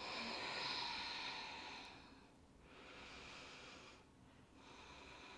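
A person's audible, steady breathing into the microphone during a held yoga pose. There are three long breaths: the first, lasting about two seconds, is the loudest, and the other two follow after short pauses.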